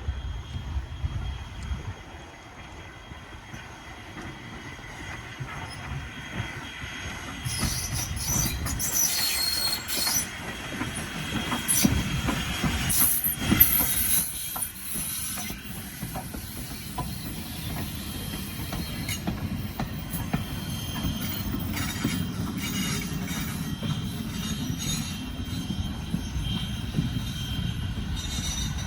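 A train passing on the rails with a steady rumble. High-pitched wheel squeal and sharp clicks come between about 7 and 15 seconds in.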